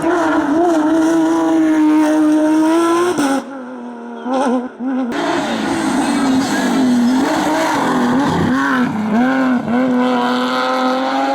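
Racing car engine at high revs under hard acceleration on a hillclimb. It holds a steady note, drops briefly about three and a half seconds in, then falls and rises several times with throttle and gear changes before holding steady again.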